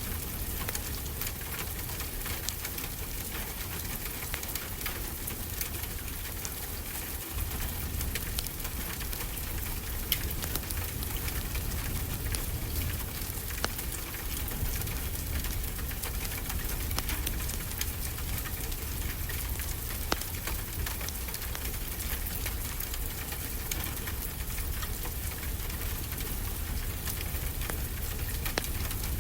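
Wood fire crackling with scattered sharp pops over a steady wash of ocean surf with a low rumble.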